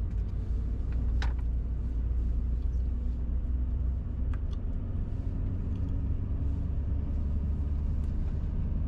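Steady low rumble of a car driving slowly, heard from inside the cabin, with a couple of brief clicks about a second in and again about four seconds in.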